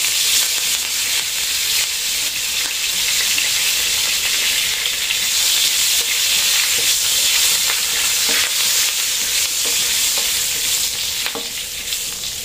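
Fresh curry leaves sizzling in hot ghee with dried red chillies and cumin as a tempering (tadka) is fried and stirred with a wooden spatula. A dense, high sizzle that eases slightly near the end, with a few light scrapes of the spatula on the pan.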